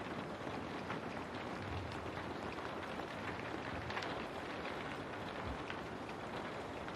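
Steady rain falling, with scattered drops ticking against window glass.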